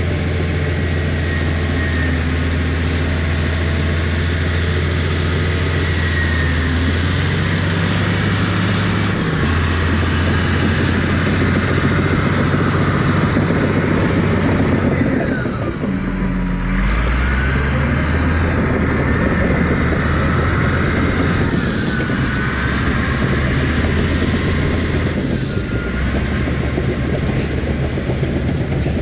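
Diesel engine of an earthmoving machine running steadily under load while pushing topsoil, with a thin high whine that rises and falls. About halfway through, the engine speed drops briefly, then picks back up.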